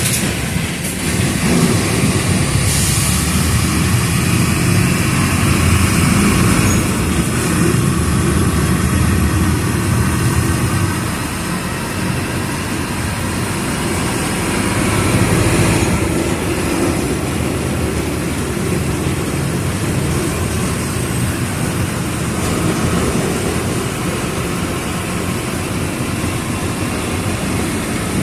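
Mercedes-Benz OF 1722M city bus diesel engine running while the bus drives, with a steady low running noise that swells louder for several seconds and eases off again as the load changes.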